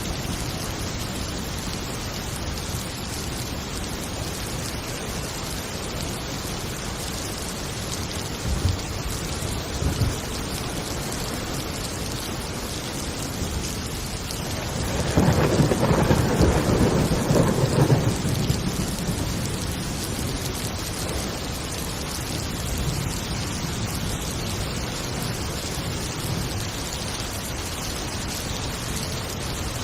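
Steady heavy rain with thunder: two short low rumbles about a third of the way in, then a louder roll of thunder around the middle, lasting about three seconds.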